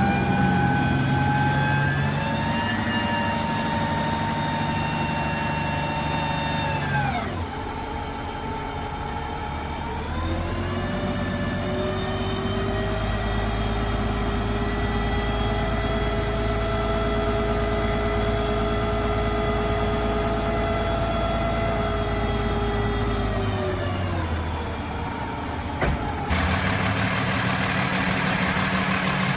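Peterbilt roll-off truck's Cummins ISX diesel engine held at raised revs. It drops back to a low speed, climbs again a few seconds later and holds, then falls back again. Near the end a click is followed by a steady hiss.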